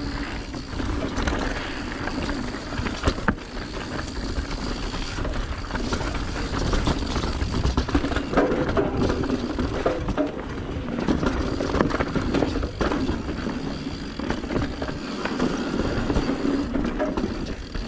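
Mountain bike descending a rough technical trail: tyres rolling over dirt and rock, with constant rattling and knocks from the bike over the bumps, and wind rushing on the microphone.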